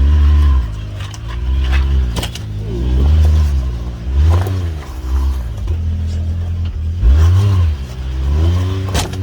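A side-by-side UTV engine revving in repeated surges as the throttle goes on and off to crawl over rocks. A few sharp knocks of the tyres or chassis against rock are heard, about two seconds in and again near the end.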